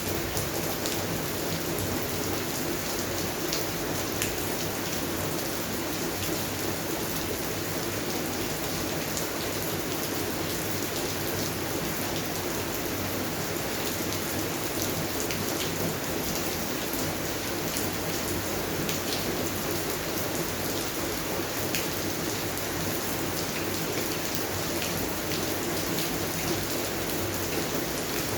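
Steady rain falling on garden plants, with many separate drops tapping through an even patter.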